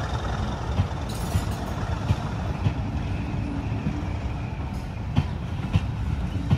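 A train of passenger coaches rolling past at close range: a steady low rumble of wheels on rail, broken by short sharp clicks as the wheels pass over rail joints.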